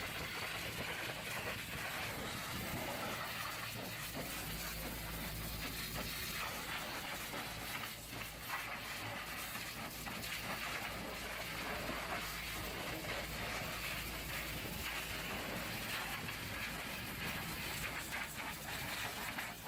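Pressure washer spraying water, a steady hiss with a faint low hum underneath.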